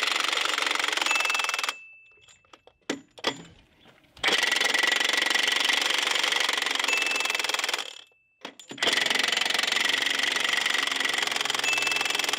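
Milwaukee M18 FUEL 1-inch extended-anvil D-handle cordless impact wrench hammering on semi-truck wheel nuts, busting them loose. It runs in three long bursts of a few seconds each, with short pauses and a few clicks between them.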